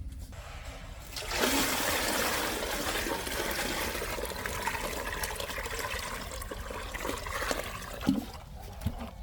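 A steady rush of pouring or splashing water. It starts abruptly about a second in and fades near the end, with a couple of short low knocks.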